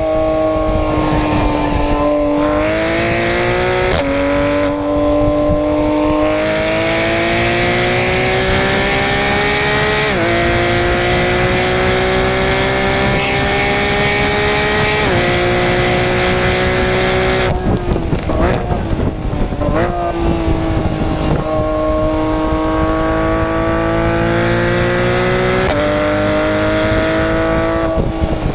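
Porsche 991 GT3 RS flat-six engine and exhaust under hard acceleration, the pitch climbing steadily and dropping sharply at quick upshifts about 2, 4, 10 and 15 seconds in. Around 17 to 20 seconds in it lifts off with short blips on the way down, then pulls hard again with another upshift near the end.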